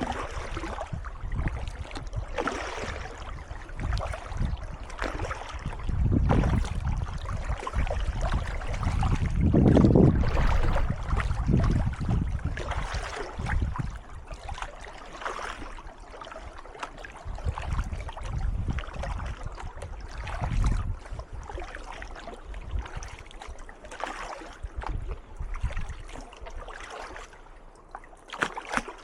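Kayak paddle strokes splashing and dripping in calm water, a stroke every second or two, louder in the first half with a low rumble and then easing off.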